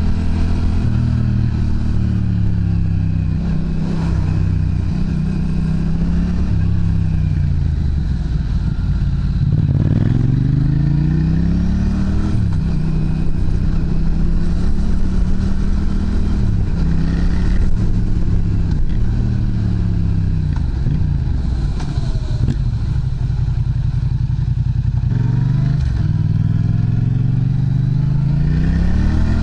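Yamaha MT-07's parallel-twin engine running through an aftermarket Prunus muffler, its revs rising and falling several times and climbing again near the end.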